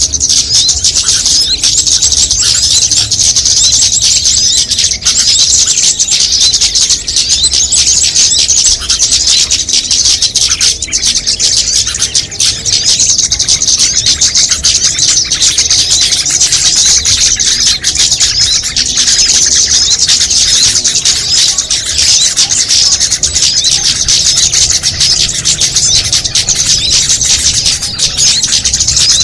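Bird-lure (pikat) recording of many small songbirds calling at once: dense, continuous, high-pitched chirping and twittering with no break, made to draw small birds in.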